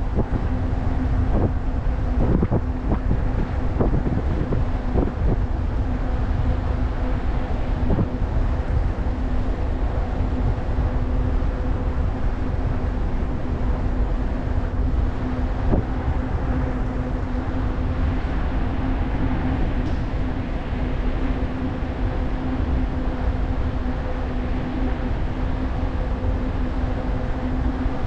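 Wind buffeting the microphone and tyre rumble on a moving e-bike, with a steady low hum throughout. A few knocks from bumps come in the first five seconds.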